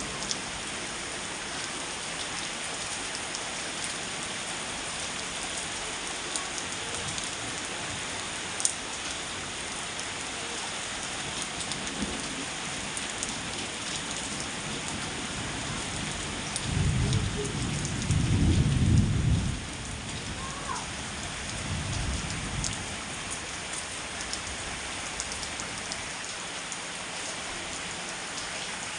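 Heavy rain falling steadily, with a low rumble of thunder lasting a few seconds a little past halfway through and a fainter rumble soon after.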